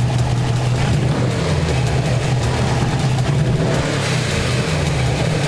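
Turbocharged flat-four engine of a 2004 Subaru WRX running and revved lightly, with a faint hiss from the dual-port blow-off valve venting as the throttle closes. The venting is slight because the engine is not building much boost while parked.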